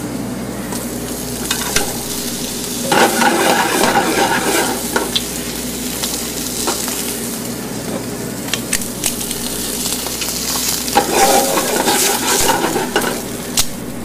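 Foie gras (goose liver) slices sizzling as they sear in a hot, preheated Teflon frying pan. The frying hiss is steady, swelling louder about three seconds in and again around eleven seconds, with a few light clicks.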